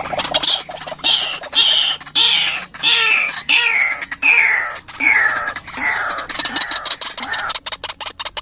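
White-breasted waterhen calling: a run of loud, harsh notes, each sliding down in pitch, repeated about twice a second.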